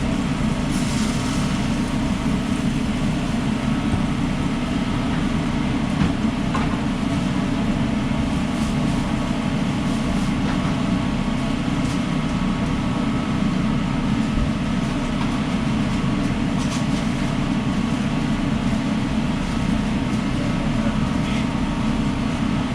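Steady, loud mechanical drone of a food truck's running equipment, such as its ventilation fans and generator, unchanging throughout, with a few faint clicks now and then.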